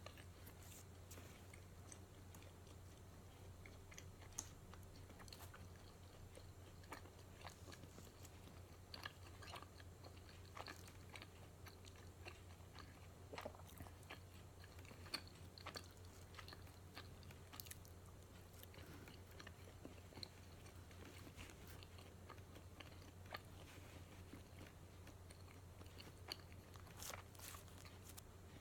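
A person chewing and biting into matcha donuts: faint mouth sounds with scattered soft clicks and small crunches, over a low steady hum.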